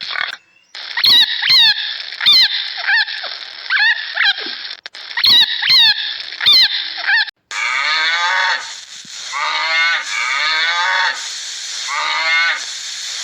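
Repeated short animal calls, each falling in pitch, about two a second; about seven seconds in a cut switches to another recording of similar calls.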